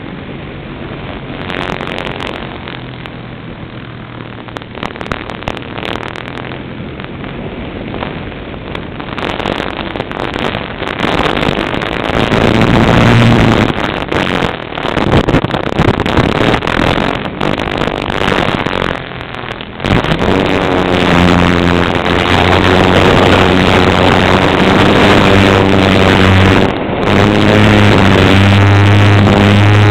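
Cessna light aircraft's piston engine and propeller, growing louder over the first twenty seconds with a rough, rushing noise. It then settles into a loud, steady engine drone, briefly dipping once near the end.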